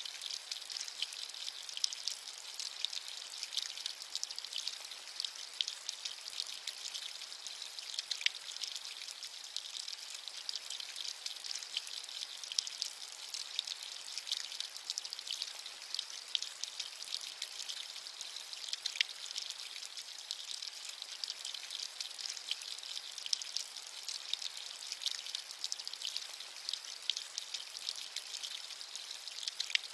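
Steady rain: an even, high-pitched hiss with many small drops ticking through it.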